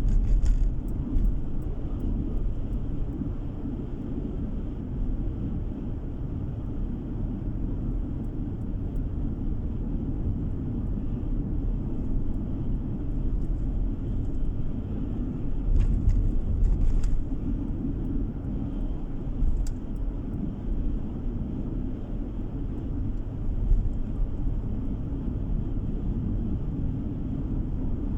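Steady low road and engine rumble of a moving car heard from inside the cabin, with a few light knocks near the start and again about halfway through.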